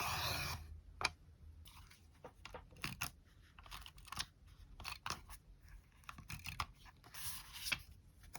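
Paper crinkling and rustling, with scattered small clicks and taps of stationery being handled for a collage. A louder rustle comes right at the start and again near the end.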